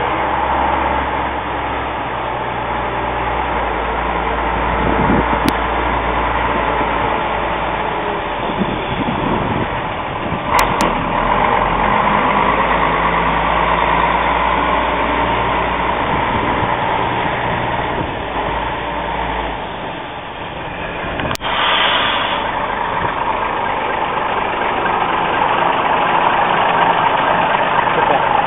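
Mack F700 truck's engine running as the truck is driven, a steady drone with a few sharp clicks. The low engine note drops away about twenty seconds in, and a brief hiss follows.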